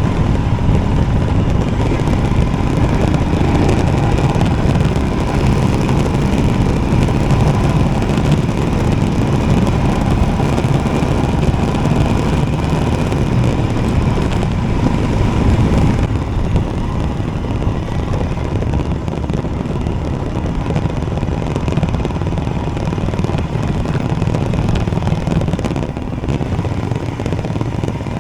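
Royal Enfield Himalayan's single-cylinder engine running steadily under way, mixed with wind and road noise. The sound turns duller about sixteen seconds in.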